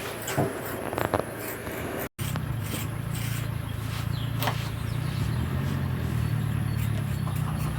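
An engine running steadily with a low hum, after a few sharp knocks in the first two seconds.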